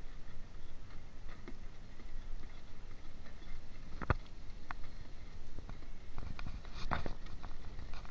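Footsteps and irregular clicks and knocks of a handheld camera rig being carried while walking, over a low, uneven rumble; the sharpest knock comes about four seconds in.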